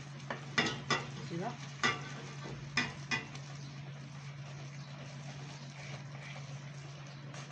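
Wooden spoon stirring thick choux-style dough in a pot over the heat, knocking against the pot several times in the first three seconds, as the flour paste is worked into one ball. A steady low hum and faint hiss run underneath.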